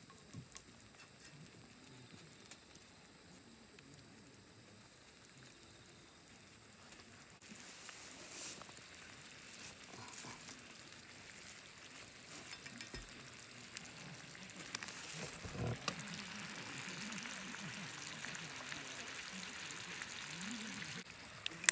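Sliced mushrooms and onions sizzling in a cast iron skillet over charcoal, with a few clicks as chopsticks stir them. The sizzle turns suddenly louder about seven seconds in.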